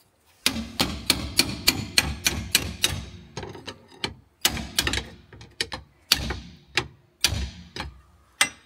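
Hammer striking metal: a fast run of ringing blows, several a second, stopping and starting again in short bursts.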